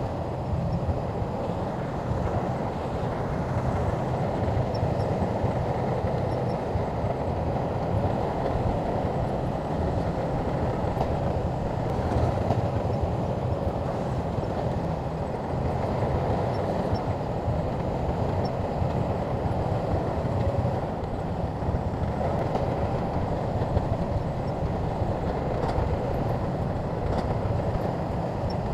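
Shantui crawler bulldozer working, its diesel engine giving a steady, heavy low drone with no letup.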